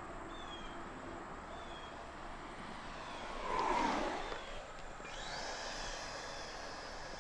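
Electric ducted fan of an FMS Rafale RC jet flying a fast low pass, its whine swelling to a peak a little past halfway and then falling away as it goes by.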